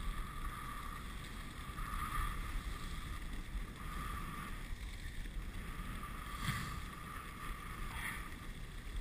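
Dog sled running along a snowy trail: a steady hiss and low rumble of the runners gliding over the snow.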